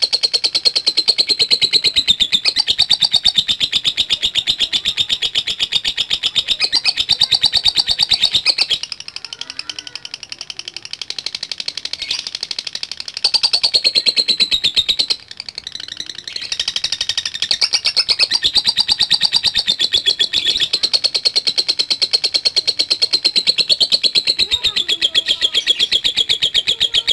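Lovebird ngekek: a long, very fast rattling chatter of high, shrill notes, kept up for many seconds at a stretch and easing off twice before picking up again.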